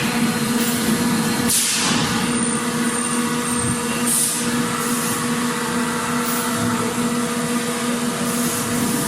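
Factory ambience: a steady machinery hum and rumble, with short bursts of hiss breaking in every two seconds or so.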